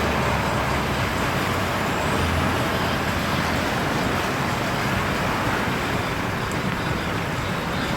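A car driving through floodwater: a steady rushing hiss of water around the car over the engine's low hum, which fades about three and a half seconds in.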